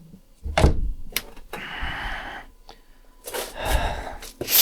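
A heavy thump about half a second in, then several sharp clicks and knocks with a brief rustle between them, in a small room.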